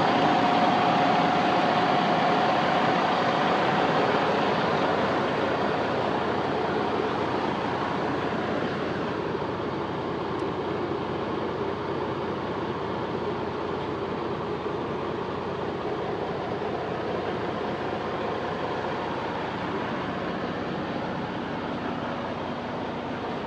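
A heavy truck's Detroit DD15 diesel running: a steady drone with faint whining tones that dip and come back. It eases off gradually over the first several seconds, then holds.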